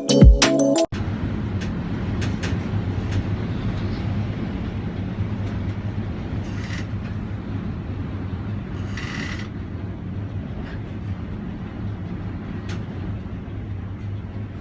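Intro music cuts off abruptly about a second in. It gives way to a steady low rumble of strong wind on the microphone, with a few faint clicks and a short hiss near the middle.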